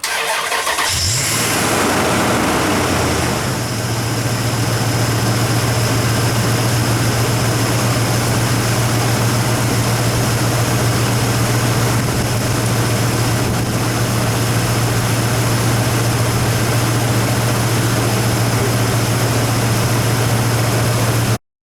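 Truck's Hemi V8 starting on a jump pack after its battery went dead: it catches about a second in, runs fast, and settles to a steady idle by about three and a half seconds in. It keeps idling until the sound cuts off suddenly near the end.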